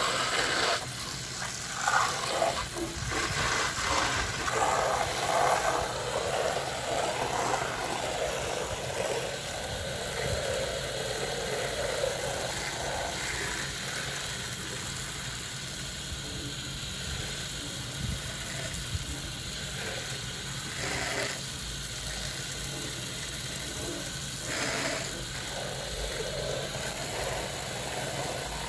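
Steady hiss of water spraying onto house siding during cleaning, over a low steady hum.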